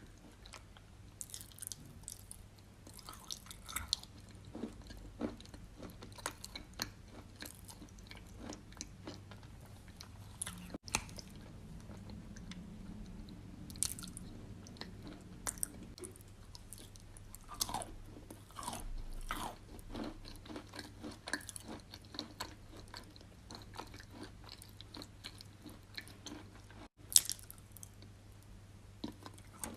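Wet chalk coated in clay paste being bitten and chewed: irregular soft crunches and moist clicks throughout, with one sharper, louder crunch near the end.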